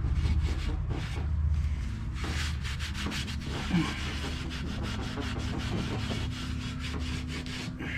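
Irregular scrubbing and scraping strokes on caked, oily gunk on a truck's intake manifold, being cleaned with mineral spirits, with a steady low hum underneath.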